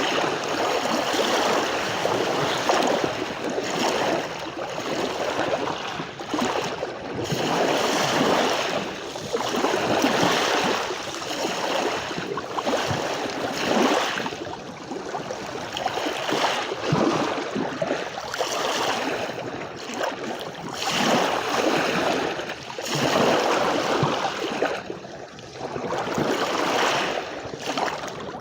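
Sea waves washing onto a beach, each one surging up and falling back every few seconds.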